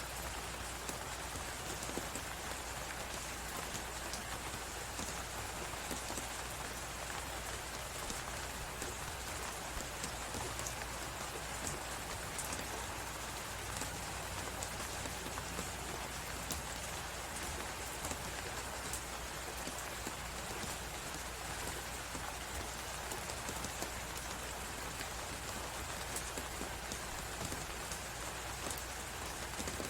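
Fireplace crackling with many small pops over a steady, even hiss. It is a sleep-ambience mix of fire and blizzard wind.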